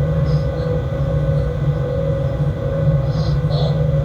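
Freight locomotive running, heard inside the driver's cab: a steady low rumbling drone with a constant mid-pitched hum, and a few faint, short high chirps now and then.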